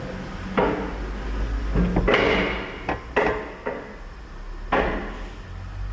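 A series of knocks and clatters, about six in all, with a busier stretch around two seconds in, over a low steady hum.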